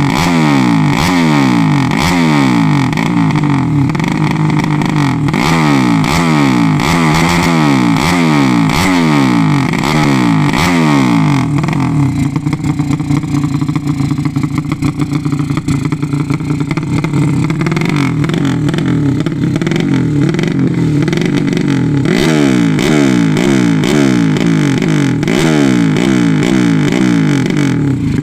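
Highly tuned 200 cc racing motorcycle engine being revved in quick, repeated throttle blips. It settles to a steadier, lower running through the middle, then the blips start again, as the carburettor setting is tried out on the bench.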